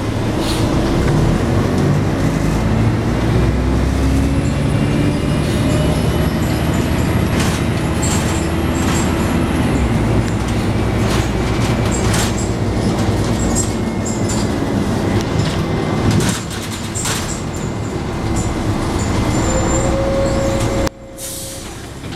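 Scania N113 bus heard from inside while on the move: the diesel engine runs steadily over road and body rattle, its note rising about a quarter of the way in. The level drops sharply near the end.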